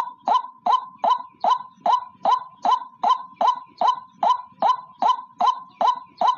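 White-breasted waterhen (ruak-ruak) calling a monotonous, evenly repeated note about two and a half times a second, each note sharp at the start and trailing off.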